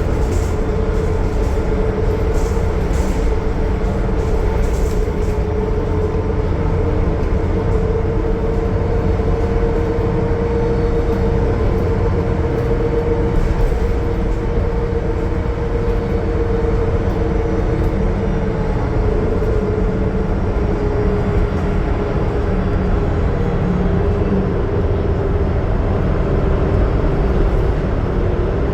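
2020 Gillig Low Floor transit bus cruising on the highway, its Cummins ISL9 diesel running under steady load with a heavy low rumble. A steady whine rides over it and sags slightly in pitch in the second half.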